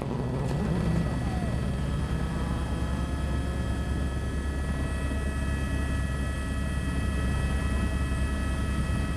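Helicopter hovering or flying steadily: an even, high turbine whine over a fast, low rotor beat.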